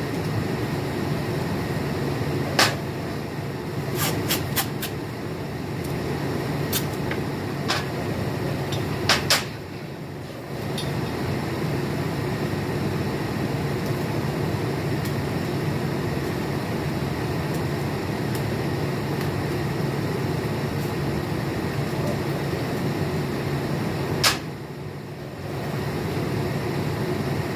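Steady machine hum of shop background noise, with scattered sharp clicks and taps from handling the stainless tube and its taped-on purge plugs. The hum drops away briefly twice.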